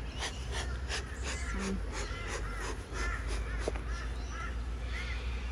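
A bird calling over and over, a series of short arching notes from about two seconds in, over a steady low rumble.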